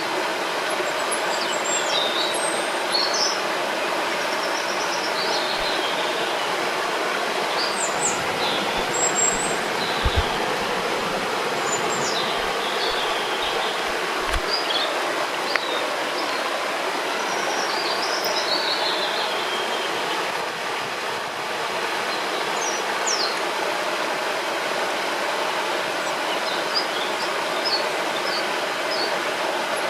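River water rushing steadily, with birds chirping in short, scattered calls over it. A few soft low bumps come near the middle.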